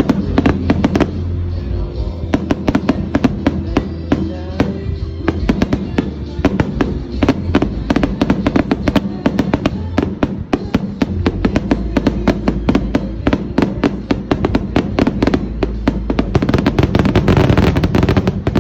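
Fireworks display: a rapid run of bangs and crackles that grows densest a little before the end, with music playing underneath.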